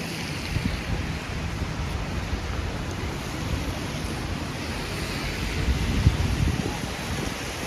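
Steady hiss of rain on a city street, with wind buffeting the microphone in low, uneven rumbles.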